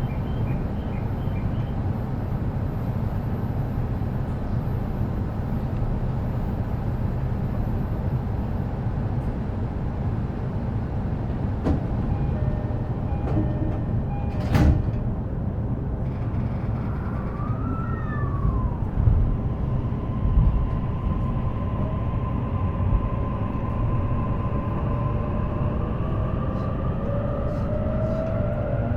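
E233-series electric train standing at a station with a steady cabin hum, a single sharp knock about halfway through, then the whine of its traction motors rising steadily in pitch as the train pulls away.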